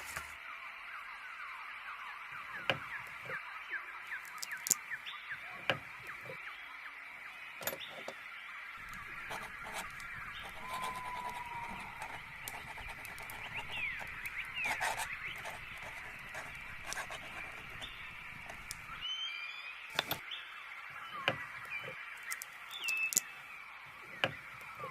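Layered ambience of birds chirping and calling, with short chirps and a few whistled glides over a steady high hum. Scattered sharp clicks and scratches run throughout.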